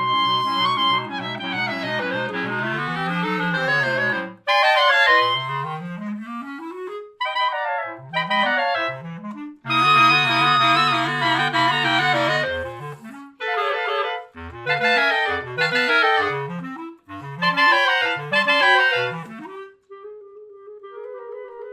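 Clarinet quartet playing live: a held chord opens, then quick rising runs pass between the instruments, a second held chord follows about ten seconds in, and one note is sustained near the end.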